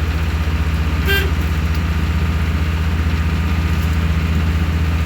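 The diesel engine of a passenger ferry boat running steadily with a low, even throb. A brief high chirp sounds about a second in.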